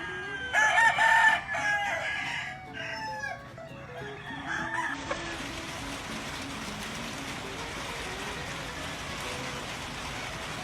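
Several gamefowl roosters crowing over one another, with clucking, loudest about a second in. About five seconds in the calls give way to a steady hiss.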